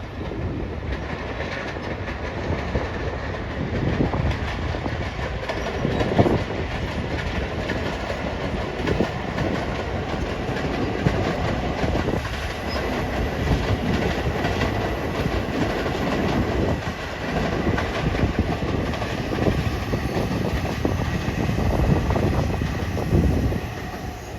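Passenger train rolling past on a rail viaduct: a steady rumble with wheels clacking over rail joints at uneven intervals throughout.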